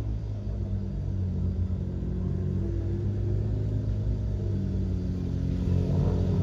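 A car engine running low and steady, its pitch rising slightly near the end.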